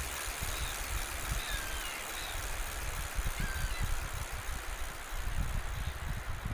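Outdoor ambience: a steady noisy background with a fluctuating low rumble and a few short, faint high bird chirps.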